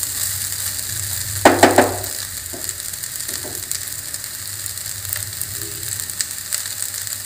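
Egg fried rice sizzling steadily in a nonstick pan. A wooden spatula scrapes and knocks against the pan in a short loud cluster about a second and a half in, with a couple of lighter knocks soon after, then only the sizzle.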